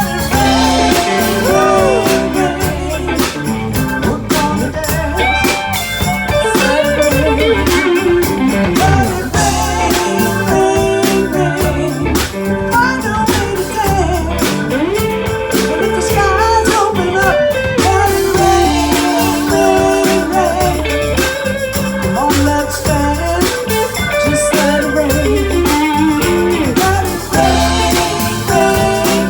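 Live blues-rock band playing: a lead line of bending notes, most likely electric guitar, over bass and drums.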